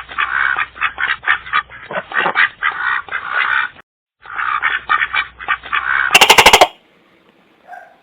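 Animal calls: many quick calls close together, breaking off briefly just before halfway, then resuming, with a louder, harsher call about three quarters in before the sound dies away.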